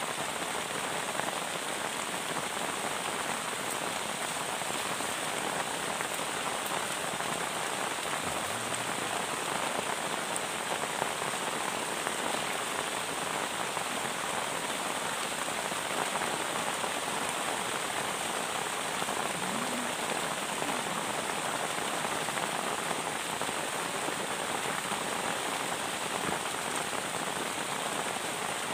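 Steady rain falling without a break, an even hiss of drops.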